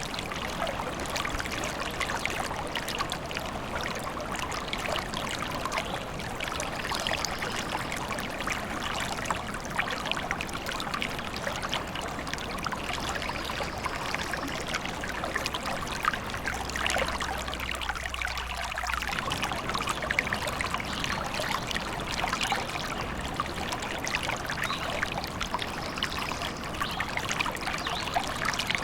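A small forest stream trickling and babbling over stones, a steady splashing rush of water.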